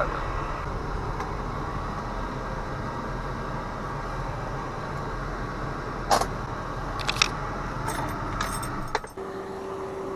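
Inside the cabin of an 80s BMW E30: the engine and AC fan run steadily, with a few sharp clicks and a jangle of keys. About nine seconds in the engine is switched off and the low rumble stops, leaving a steady tone.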